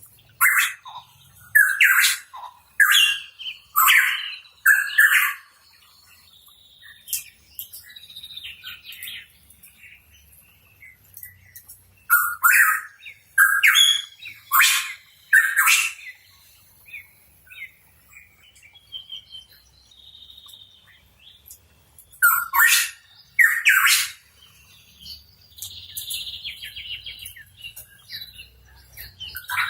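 Pitohui calling: loud, sharp calls in three bouts, five in quick succession at the start, four about twelve seconds in and two more about twenty-two seconds in, with softer chattering calls between the bouts.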